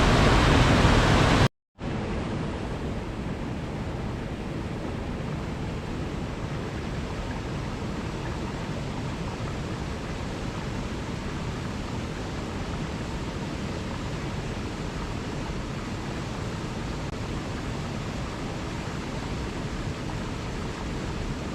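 Steady rushing of running water. A louder stretch cuts off about a second and a half in, and after a brief gap of silence a quieter, even rushing carries on.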